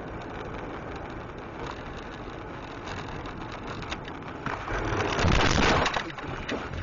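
Steady noise of a car on the road, heard from inside the car. It swells into a louder rushing noise lasting about a second and a half near the end, with a few sharp clicks.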